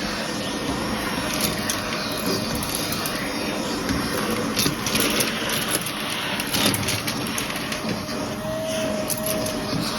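Vacuum cleaner running steadily, with scattered crackling clicks of debris being sucked up. A faint steady motor whine drops out and returns near the end.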